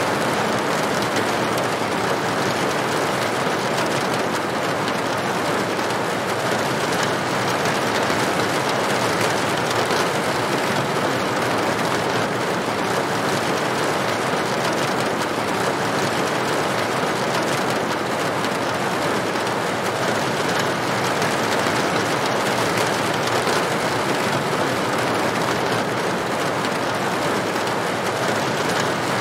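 Steady rain falling on a tin roof: an even hiss of countless drops that stays at the same strength throughout.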